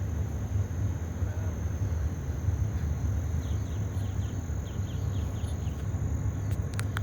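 Outdoor lakeside ambience with a steady low rumble of wind on the microphone. Past the middle a small bird gives a quick run of high, falling chirps, and a couple of sharp clicks come near the end.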